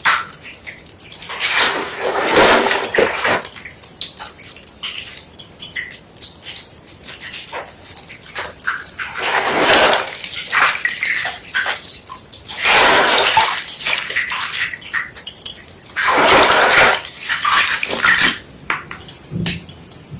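Wet white gym chalk being crushed and squeezed, crunching and crackling in irregular bursts, with a few wet, squishy spells.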